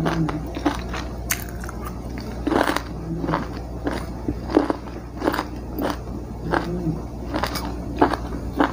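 Close-miked chewing of a mouthful of green beans with chicken gizzard and quail egg, with irregular sharp mouth clicks about one or two a second.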